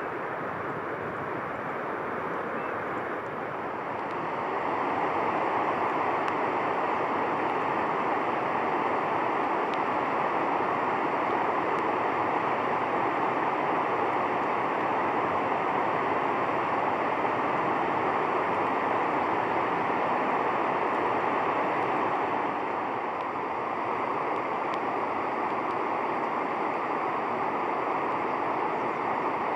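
Steady rush of flowing water, such as a river or weir, growing louder about four seconds in.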